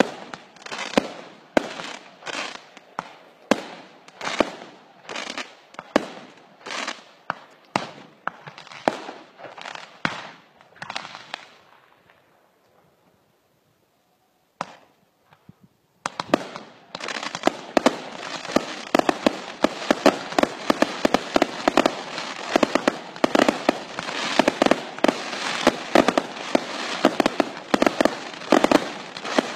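Fireworks show being fired: single shots go off about two a second for some twelve seconds and fade. After a pause of a few seconds broken by one bang, a dense, rapid barrage of bangs runs on.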